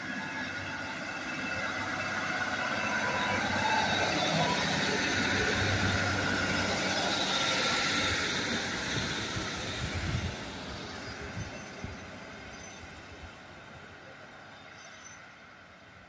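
A two-car Class 156 diesel multiple unit runs past close by, its diesel engine humming under steel wheels that squeal on the rails. The sound builds to a peak, a few clicks follow as the wheels cross rail joints, and the train then fades away into the distance.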